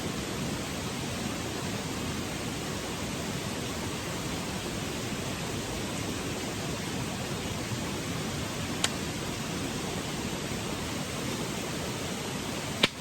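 Steady rushing noise, even throughout, with a sharp click about nine seconds in and another near the end.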